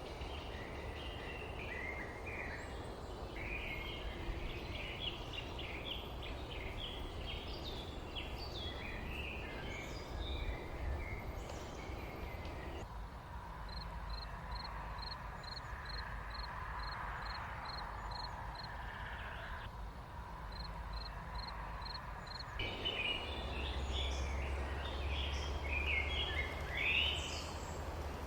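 Small birds chirping and twittering in quick overlapping calls. In the middle stretch one bird repeats a short high note about twice a second. A low steady rumble runs underneath.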